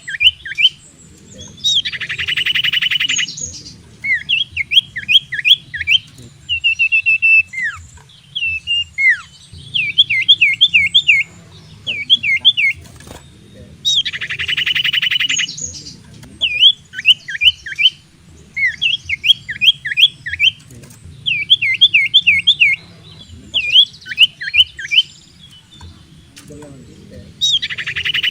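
Cipoh (common iora) singing: runs of quick, clear up-and-down whistled notes, broken about every twelve seconds by a harsher buzzing rattle.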